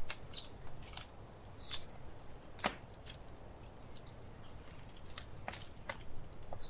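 Wood fire crackling: irregular sharp pops and snaps over a low steady rumble of the flames, the loudest pop about two and a half seconds in.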